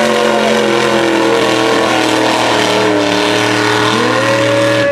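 Mega truck's engine running hard under heavy throttle, its pitch climbing about four seconds in.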